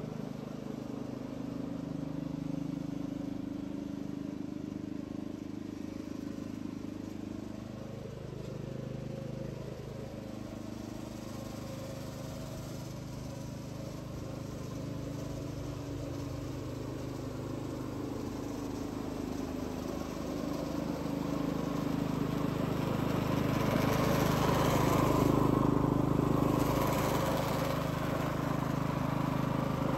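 Engine of a petrol reel mower running steadily under mowing load. It grows louder about two-thirds of the way in, and a brighter rushing sound joins it near the end.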